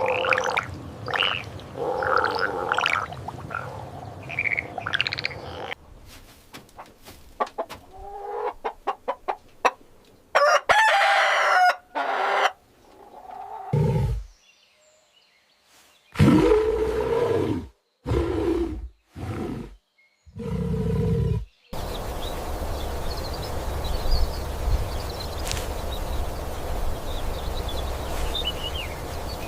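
A run of short farm-animal clips cut one after another, with chickens clucking and a rooster crowing among them. The last several seconds are a steady background noise with faint high chirps.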